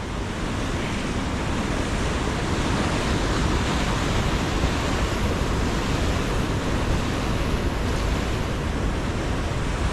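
Steady rushing of fast river water running through a canyon.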